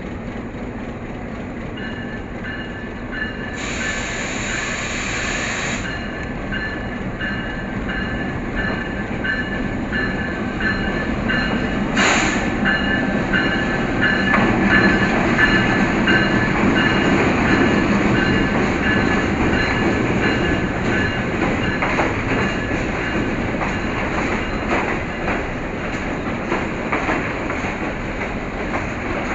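Green Line Express passenger train rolling into the station, its running noise building to a peak about halfway and then easing off. A high ringing tone repeats evenly through most of it. A hiss comes about four seconds in, and a short sharp burst about twelve seconds in.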